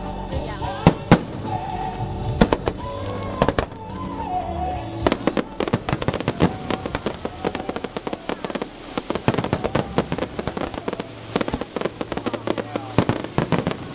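Fireworks going off over music: a few loud single bangs in the first few seconds, then from about five seconds in a dense, rapid crackling of many small pops.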